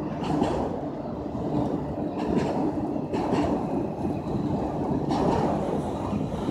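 Train rolling past: a steady rumble of rail cars with a few scattered clicks from the wheels.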